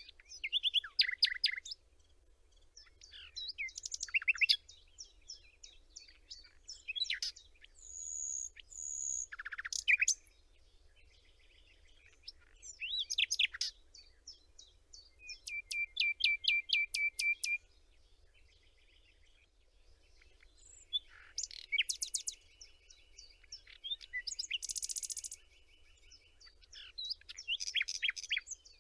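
Songbirds singing: a series of varied phrases of quick chirps, whistles and fast trills, with short pauses between them and a couple of longer buzzy trills in the middle.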